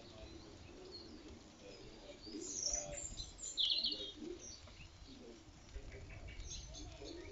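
Birds calling, with two brief bright chirps about two and a half and three and a half seconds in, over a low steady rumble.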